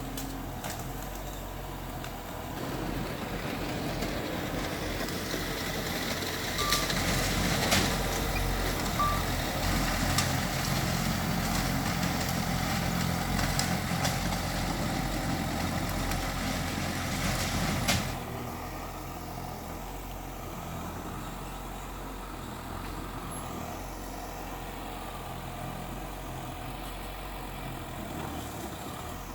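Heavy diesel earthmoving machinery running. It grows louder for about fifteen seconds with several sharp knocks and clanks, then drops suddenly to a quieter steady running about eighteen seconds in.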